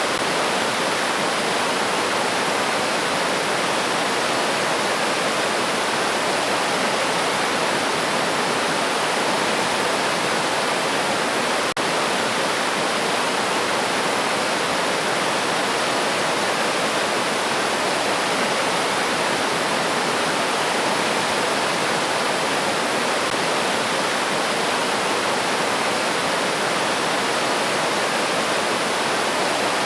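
River water rushing steadily over rocks, an even unbroken roar of flowing water, with one brief tick about twelve seconds in.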